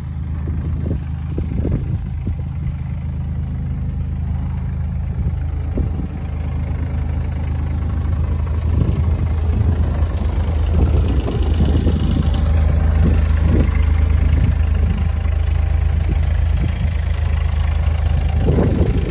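Diesel engine of a Takeuchi TB016 mini excavator running steadily at idle, growing a little louder about halfway through, with occasional light knocks.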